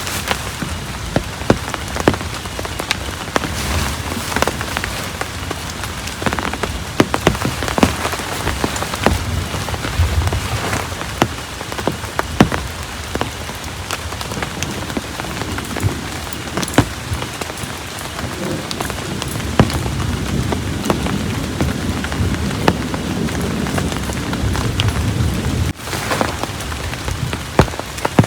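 Heavy rain falling steadily, with many individual drops striking close by as sharp ticks.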